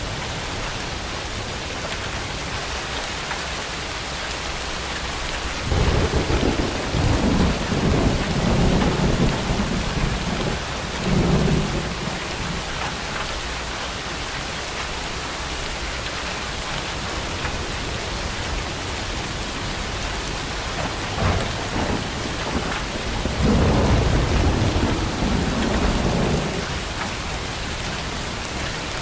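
Heavy rain falling steadily, with rolls of thunder rumbling: one about six seconds in that lasts several seconds, a short one past the middle, and another long one near the end.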